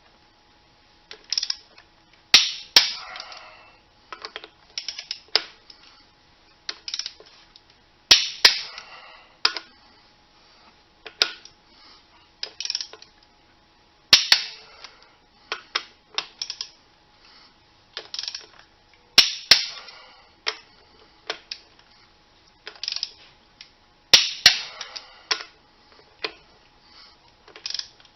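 Hand tools working on metal tractor parts: sharp metallic clicks and clanks, some with a short ring, coming in clusters about every five to six seconds with lighter ticks between.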